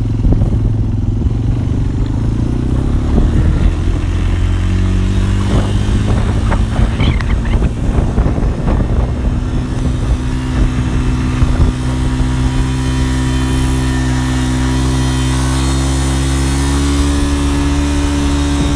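Honda TRX250 quad's single-cylinder four-stroke engine running, its pitch rising gradually over the first half and then holding steady. Scattered short crackles come through in the middle.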